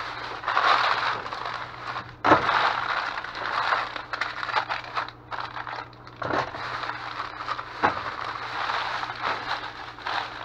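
Plastic bags and candy wrappers crinkling and crackling as they are handled and sorted, with sharper, louder crackles about two, six and eight seconds in. A faint steady low hum runs underneath.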